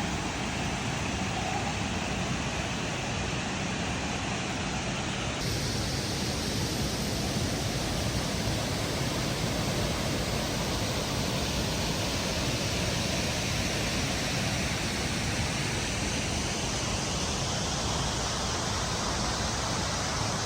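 Waterfall water rushing, a steady even roar of falling water; its tone brightens a little about five seconds in.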